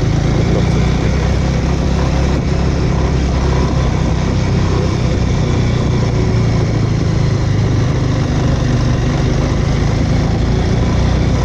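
Bajaj Avenger motorcycle's single-cylinder engine running steadily at an even cruising pace.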